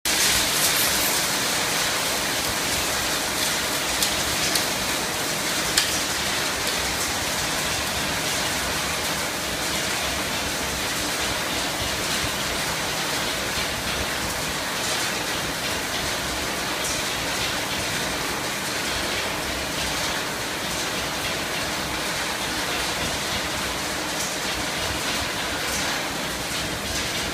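Screening machine (vibrating sieve) running, with material pouring and rattling through it as a steady, dense noise. A few sharp knocks stand out about four to six seconds in.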